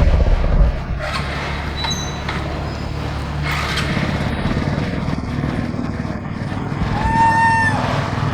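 Steady low rumble of motor traffic, strongest in the first second. About seven seconds in, a single drawn-out, high-pitched monkey coo call.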